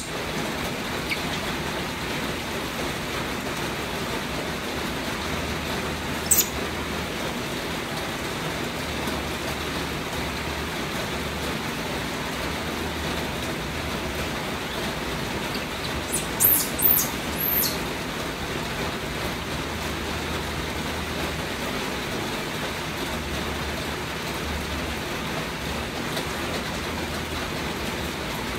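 Steady rain making an even hiss throughout. A few brief high-pitched sounds cut through it, one about six seconds in and a short cluster around two-thirds of the way through.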